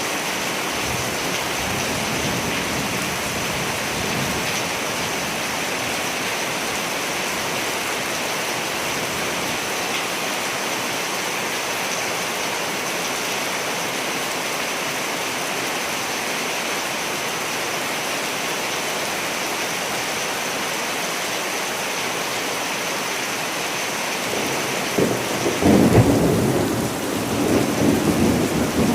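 Steady rain falling, with a rumble of thunder rolling in near the end.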